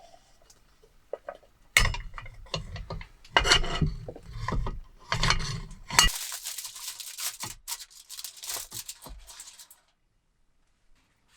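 Cookware and utensils being handled: a run of clinks, knocks and rubbing. This gives way to a few seconds of rustling noise that stops shortly before the end.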